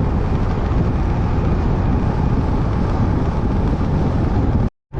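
Motorcycle cruising on the open road, its engine mixed with heavy wind rushing over the microphone; the sound drops out completely for a moment near the end.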